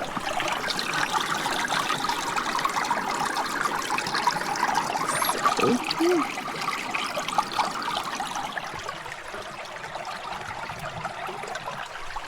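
Shallow water trickling and lapping among rocks on the shore, a steady bubbly crackle that eases a little in the second half. A brief pitched sound rises and falls about six seconds in.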